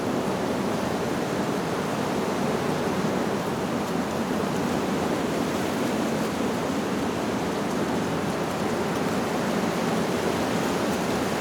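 Wind blowing through leaves, a steady, even rush.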